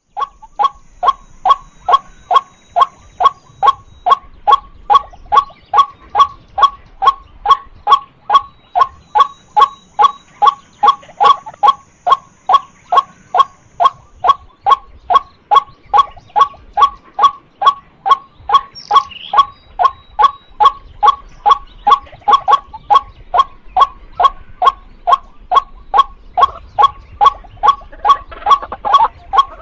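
White-breasted waterhen calling: a steady, rhythmic run of short, hoarse 'kwak' notes, about three a second, kept up without pause.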